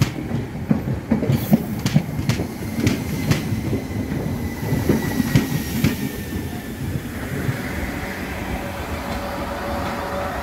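Southern electric multiple unit running along the platform, its wheels clicking over rail joints, the clicks dying away after about six seconds. A second electric train, a South Western Railway unit, takes over with a steadier hum near the end.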